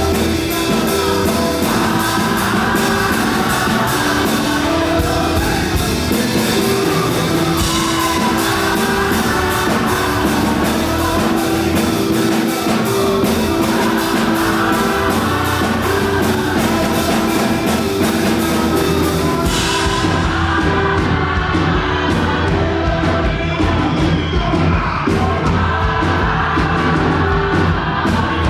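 Fast live gospel worship music: singers over a full band with drum kit and bass, driving a quick steady beat. About two-thirds through, the bright high end drops away while the drums and bass carry on.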